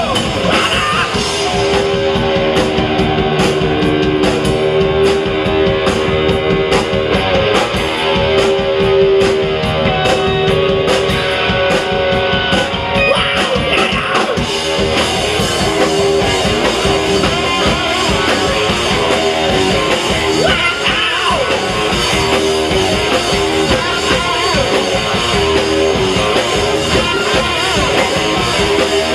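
A rock band playing live: an electric guitar holding sustained notes over a drum kit keeping a steady beat, with cymbal strokes ticking along through the first half.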